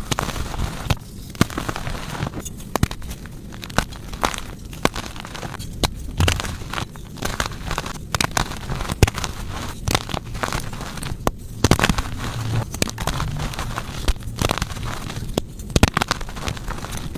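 Gym chalk being crushed, crunching and crumbling in a dense run of irregular crackles.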